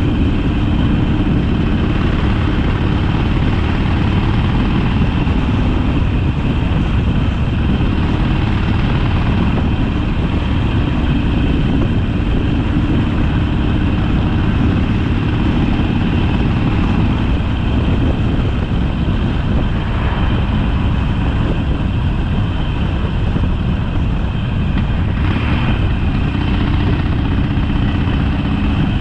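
Harley-Davidson Sportster's V-twin engine running steadily under way.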